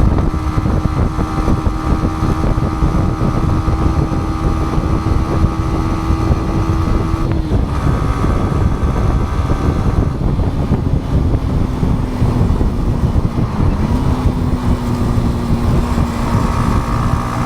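Motorcycle engine running steadily under way, with wind rushing over the microphone. The engine pitch drops with a brief break at a gear change about seven and a half seconds in, then steps up again about fourteen seconds in.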